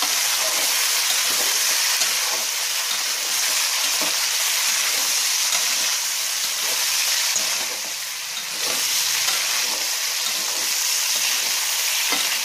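Chicken pieces sizzling in hot oil with onions and whole spices in a large metal karahi, being stir-fried (bhuna) over a lowered flame. A metal spatula scrapes and knocks against the pan now and then, and the sizzle dips briefly about two-thirds of the way through.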